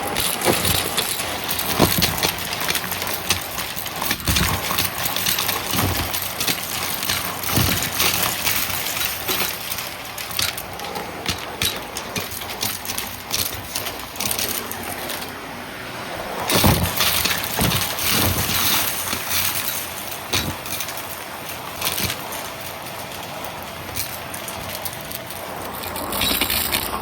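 Vacuum cleaner running and sucking up crunchy debris, with a dense stream of crackles and clicks over the steady noise of the machine.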